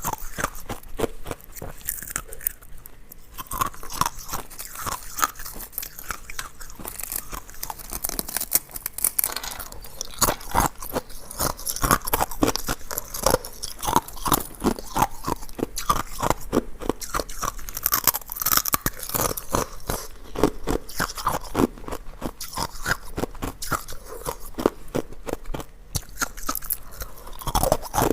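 Close-miked biting and chewing of hard ice cubes: rapid, continuous crunching, with sharp cracks as the ice breaks.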